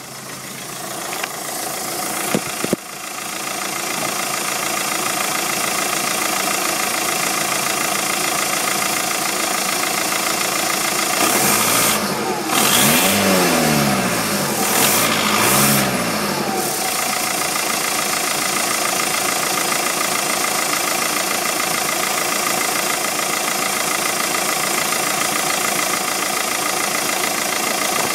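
VW Golf 2.0 TDI four-cylinder diesel engine idling with a strong, steady hiss, the odd noise the owner is trying to trace. It is revved briefly twice about halfway through, the pitch rising and falling each time, with a couple of sharp clicks a little over two seconds in.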